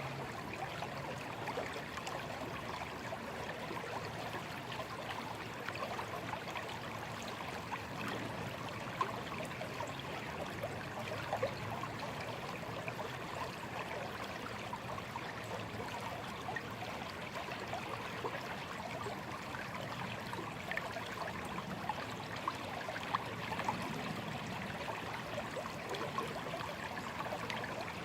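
A small, gently flowing stream: water babbling and trickling steadily, with brief splashy flickers.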